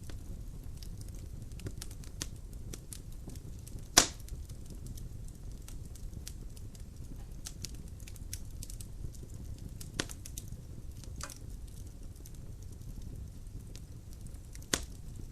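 Logs burning in a fireplace, with a low steady rumble of flame and scattered sharp crackles; one loud pop about four seconds in and another near the end.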